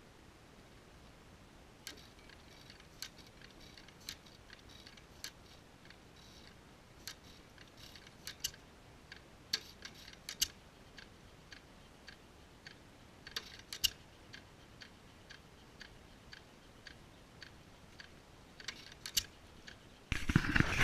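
Scattered light clicks, about one a second and irregular, while an antique hit-and-miss engine is readied to start. Near the end a much louder engine noise sets in abruptly as the engine starts.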